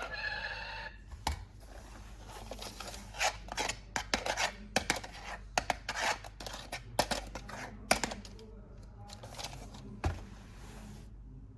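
Hands unpacking and handling a toy and its plastic packaging: a run of sharp clicks, crinkles and rustles, busiest until about eight seconds in, then quieter.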